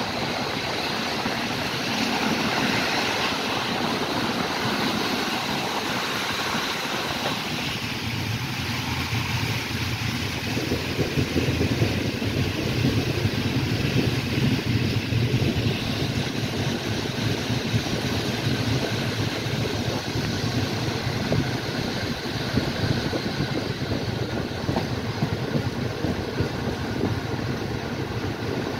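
Passenger train running on rails, heard from inside a carriage at its window: a steady rumble of wheels and track with a hiss of air. A deeper steady hum comes in about eight seconds in as the train rolls alongside a station platform.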